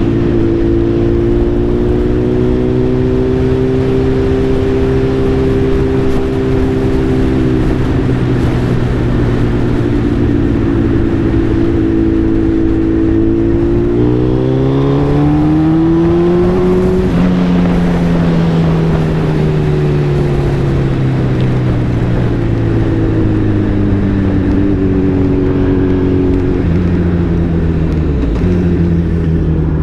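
Suzuki Hayabusa's inline-four engine running under way. It holds a steady pitch, rises as the bike accelerates from a little under halfway through, then falls slowly as it eases off.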